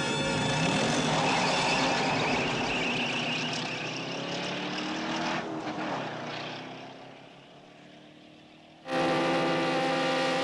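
V8 Interceptor's engine revving hard as the car launches with wheelspin, then its note fading as it speeds off into the distance. About nine seconds in, a loud steady drone cuts in suddenly.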